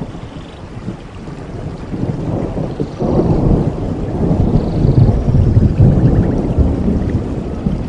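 Rain falling steadily, with a deep rumble that swells about three seconds in and is loudest through the middle.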